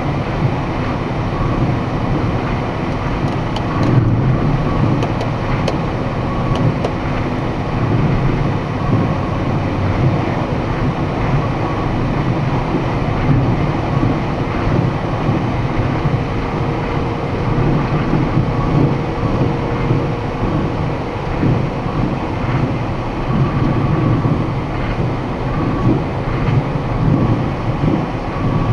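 Box truck on the move: steady engine and road rumble.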